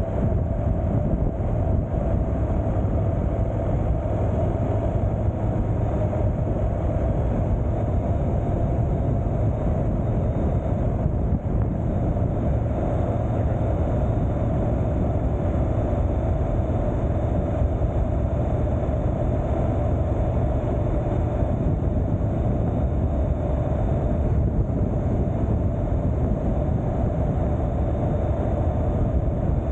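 Motorcycle riding at a steady speed: engine drone mixed with wind rush on the helmet or bike-mounted microphone, unbroken throughout.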